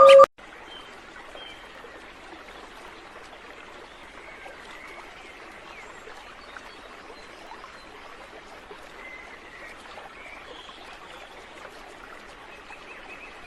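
Steady rushing ambience like running water, with a few faint, short chirps over it.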